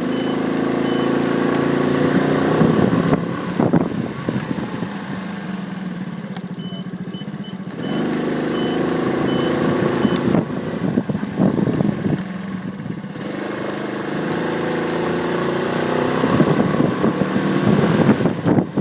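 Motorcycle engine running on the move through traffic, its note coming up in three stretches as the throttle opens, over wind and road noise on the handlebar-mounted phone's microphone.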